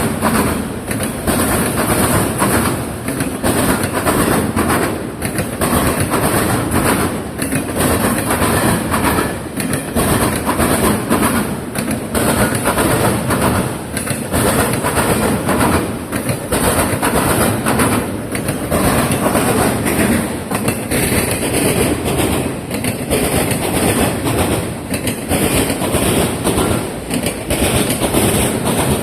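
Freight train wheels of a Norfolk Southern autorack train pounding over railroad diamond crossings: a steady run of loud clacks, several a second, over the rumble of the passing cars.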